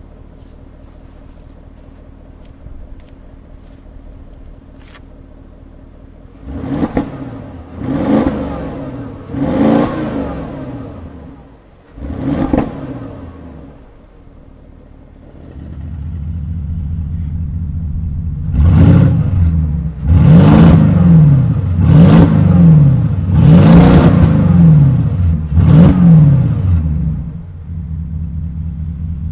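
Porsche Cayenne Turbo's twin-turbo V8 idling and being blipped during an exhaust valve test: four short revs first, then about halfway through the idle suddenly gets much louder and five louder revs follow before it settles back to idle. The jump in loudness marks the change in exhaust valve setting.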